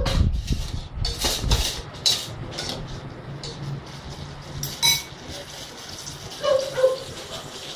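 Kitchen utensils and dishes clinking and knocking: a run of clinks in the first few seconds, then a sharper ringing clink about five seconds in.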